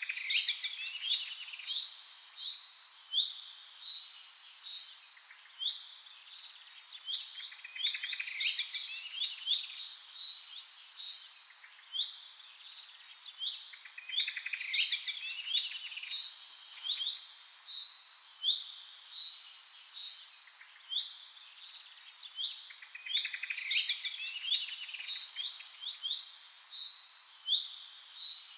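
Songbirds chirping and singing: many short, overlapping high calls and trills coming in clusters every few seconds.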